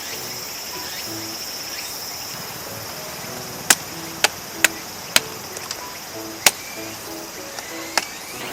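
Six sharp, irregularly spaced knocks of firewood being chopped for a campfire, starting about halfway through. They sound over a steady high insect chirring and soft background music.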